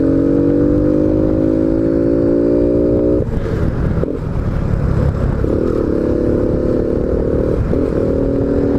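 Honda Biz 125 single-cylinder four-stroke engine, fitted with a sport air filter, running under way with its note slowly climbing. The note cuts off about three seconds in, comes back a couple of seconds later and breaks briefly again near the end, over a steady low wind rumble on the microphone.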